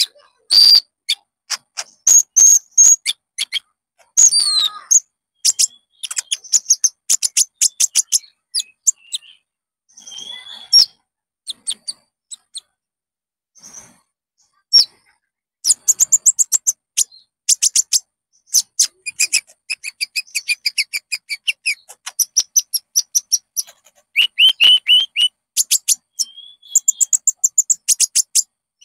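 Konin songbird singing: fast strings of sharp, high chirps and short whistled trills, with a thinner patch of song about halfway through.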